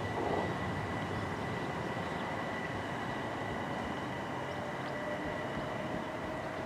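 Class 377 electric multiple unit running: a steady rumble with high, steady whine tones, and a fainter tone rising slowly in the second half.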